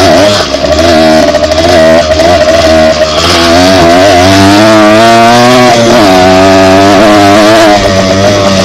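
Dirt bike engine running loud while being ridden, its revs rising and falling; the revs climb about halfway through, then drop back.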